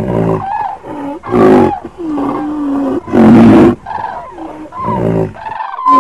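Animal calls as sound effects: loud roars, one about every two seconds, with other, higher animal cries in between.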